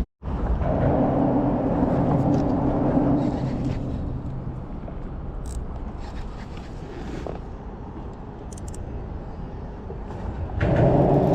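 Motor vehicle engine passing: a steady hum for a few seconds, then fading into a low rumble.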